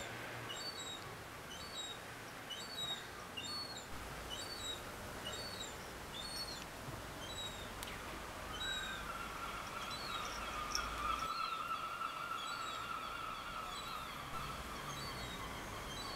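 Garden birds chirping: many short, high notes, several a second. About halfway through, a steady hum joins in and fades out near the end.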